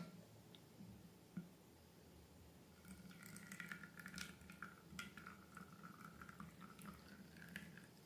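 Faint wet squishing and small sticky clicks, as of slime being worked by hand. This starts about three seconds in, after near silence.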